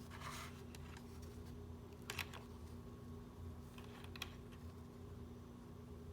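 A few light clicks and taps of small hand tools and parts being handled at close range: a brief rustle near the start, a sharp double click about two seconds in and another click about four seconds in. A steady low electrical hum runs underneath.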